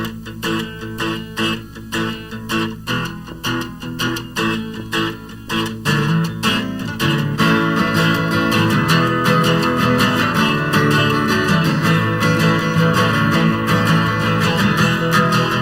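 Live acoustic guitar band playing: a picked guitar figure with evenly spaced notes, then about six seconds in the other instruments come in and the playing becomes fuller and steady.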